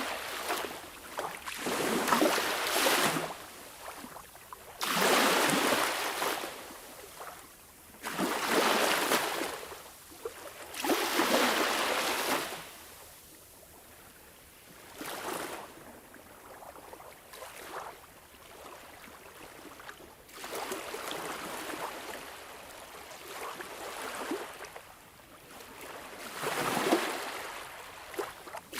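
Sea waves washing in: repeated surges of surf hiss, each swelling and fading over a second or two, a few seconds apart, with a gentler stretch about halfway through.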